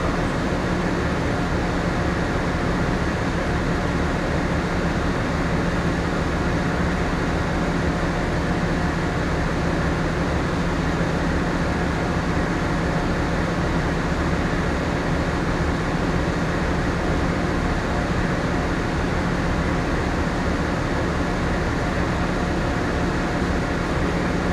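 Steady hum of a moored ship's onboard machinery and ventilation: an even rumble and hiss with a few faint constant tones, unchanging throughout.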